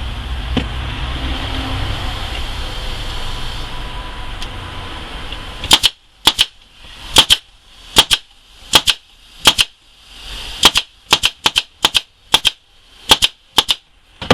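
Staple gun driving 1 1/4 inch staples into pine nuc box parts: a quick, uneven run of sharp shots, starting a little before halfway through, after a steady low rumble.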